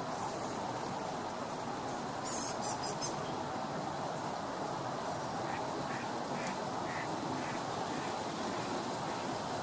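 Birds calling in a regular series of short calls, about two a second, starting about halfway in, over a steady rushing background noise; a brief flurry of high, quick sounds comes between two and three seconds in.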